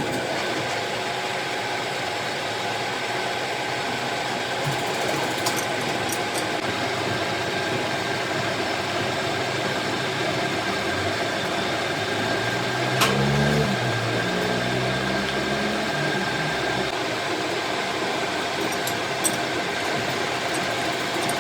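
Workshop machine running steadily, a motor hum with a thin high whine, broken by a few sharp clicks and a brief lower-pitched sound a little past halfway.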